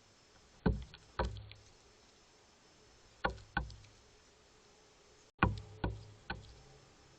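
Seven sharp knocks close to the microphone, mostly in pairs with a short ring after each: an animal at the feeder knocking or pecking on it.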